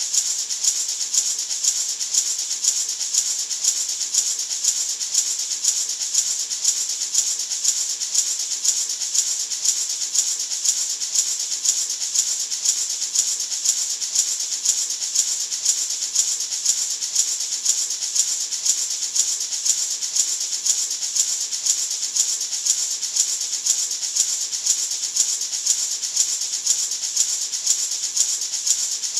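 Natural gourd maraca shaken continuously in a steady, even rhythm, giving a bright rattling hiss.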